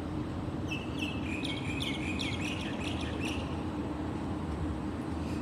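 A small bird chirps a quick run of short, high notes for a few seconds over a steady low background rumble.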